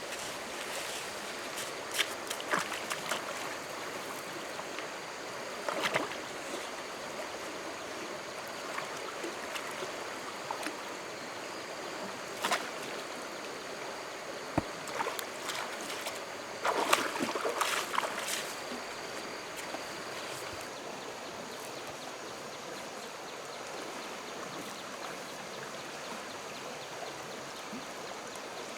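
Stream water rushing steadily, with a few short sharp knocks or splashes, the longest cluster about two-thirds of the way through.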